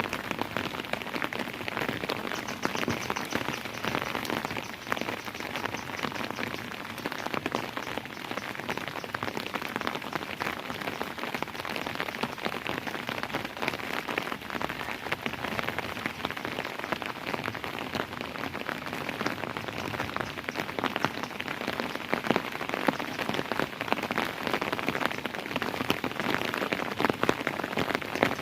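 Steady rain falling on a surface, a dense patter of individual drops.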